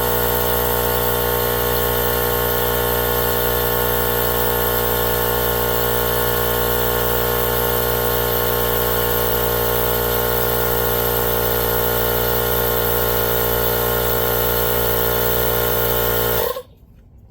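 Air compressor running steadily as it inflates a mini bike tire to seat the bead, at a seating pressure of about 28 psi. It cuts off suddenly near the end.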